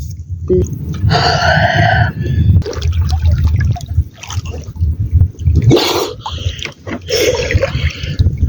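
Water splashing and gurgling over a steady low rumble, with several louder splashes.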